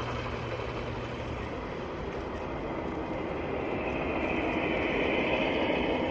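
Model trains running on an outdoor garden-railway layout, a steady rumble of wheels on track that grows louder over the last few seconds.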